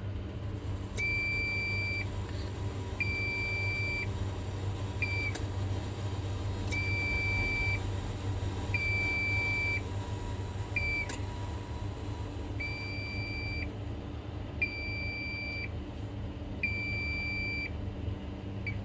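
Electronic buzzer beeping in a steady pattern: two beeps of about a second each, a second apart, then a short blip, repeating. A steady low electrical hum runs underneath.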